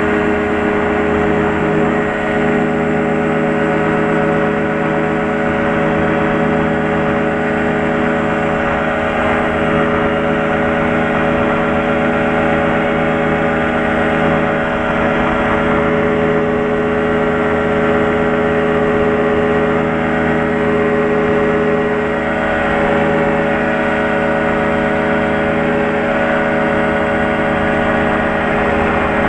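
Small plane's piston engine and propeller droning steadily at cruise power, heard inside the cockpit.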